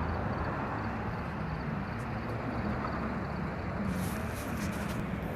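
Steady low engine hum and outdoor traffic noise, with no clear single event.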